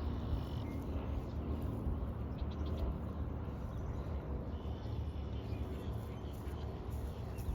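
Outdoor ambience: a steady low rumble, with a few faint, short bird chirps about two and a half seconds in and again near five seconds.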